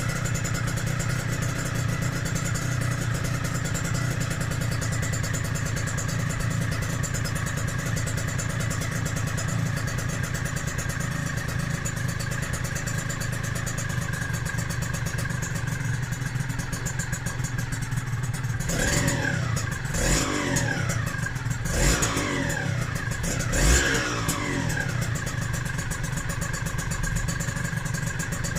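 Yamaha DT125R's single-cylinder two-stroke engine, freshly rebuilt with its power valve fitted, idling steadily through a DEP exhaust pipe. About two-thirds of the way through it gets four quick throttle blips, each revving up and falling back to idle.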